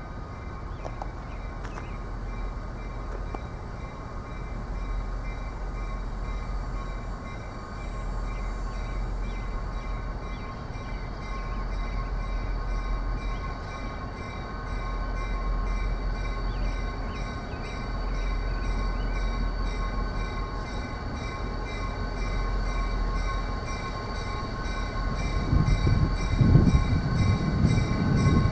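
A train rolling past on the rails: a continuous rumble with several steady high-pitched tones over it, growing louder near the end.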